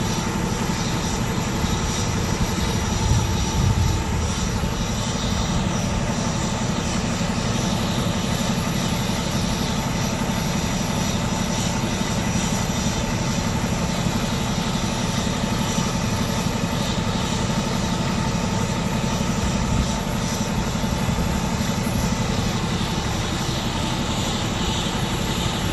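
Steady engine drone with a fast, even low pulse, as of a vehicle running down the road.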